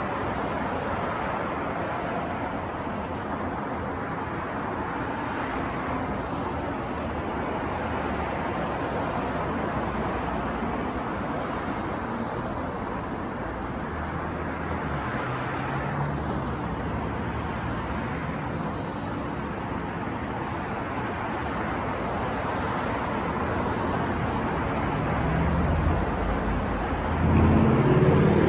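City street traffic noise: a steady wash of passing cars. Near the end, one vehicle's engine grows louder as it passes close.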